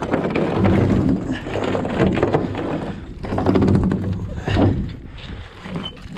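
Steel mooring chain being hauled aboard a boat, its links clanking and knocking against one another and the hull in a rapid, irregular run of metallic knocks.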